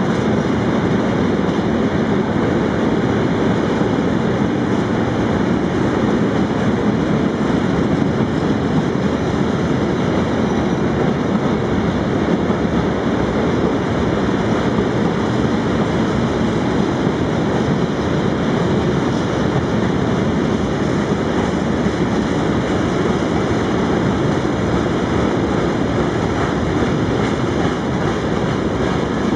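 Freight train rolling past: a loud, steady rumble of wagons on the track, with no clear beat of wheel joints.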